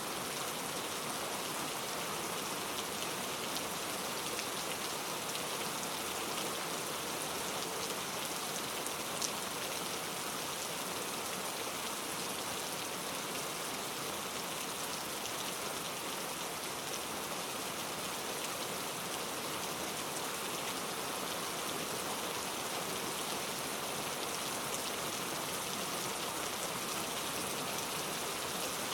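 Steady rain falling, an even hiss of drops that stays the same throughout.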